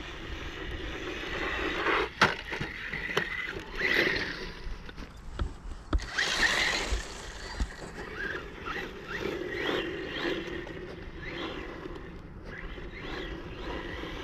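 Brushless electric motor of a 1/18-scale RC truck whining up and down with the throttle as it is driven, with several sharp knocks from the truck hitting the ground, the loudest about two seconds in.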